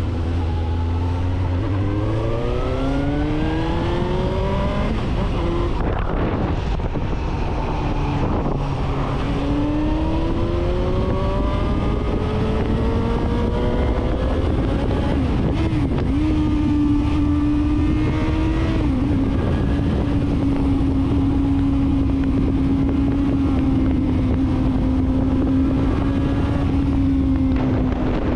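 2016 Suzuki GSR750's inline-four engine through an aftermarket full exhaust, accelerating up through the gears: the note climbs and falls back at each upshift, three times. For the last third or so it holds a steady note while cruising.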